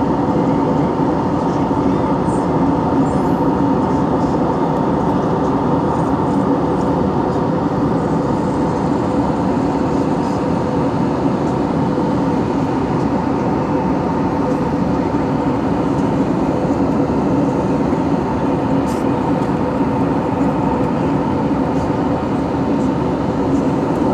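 Airliner cabin noise: the steady drone of the jet engines and rushing air heard inside the passenger cabin, an even hum with a few held tones and no change in level.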